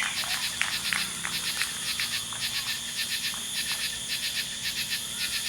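Night insect chorus, crickets trilling in an even, rapid pulse.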